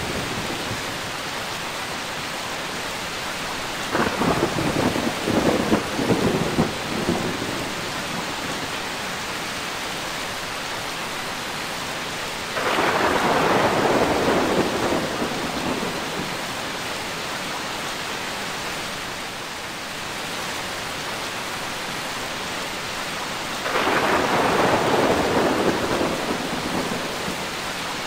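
Thunderstorm: steady heavy rain with three rolls of thunder. The first, about 4 seconds in, comes as a few sharp cracks. The other two are longer rumbles, about halfway through and near the end.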